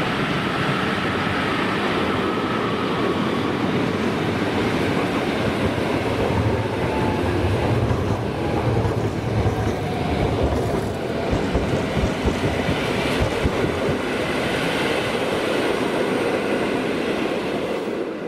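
A train running through a railway station, with a steady rail noise and a faint whine that slowly falls in pitch. Heavier low thumps from the wheels come in the middle, and the sound fades sharply at the very end.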